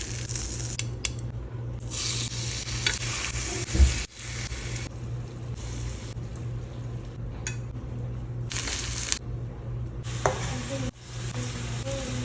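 Chicken pieces sizzling as they fry in a pan and are stirred, with a spoon or spatula clinking and scraping against the pan. The sizzle comes and goes in stretches with abrupt cuts, and there is a loud thump a little under four seconds in.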